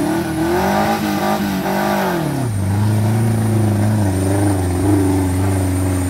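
Suzuki Jimny 4x4's engine revving hard under load as it drives up out of deep mud: the revs swing up and down for the first two seconds or so, then hold high and steady.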